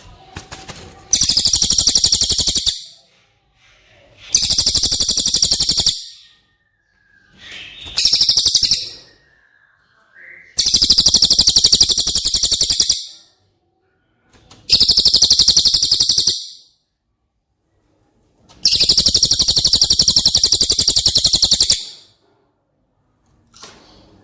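Cililin bird song: six rapid, high-pitched trills, each lasting one to three seconds, with short pauses between them.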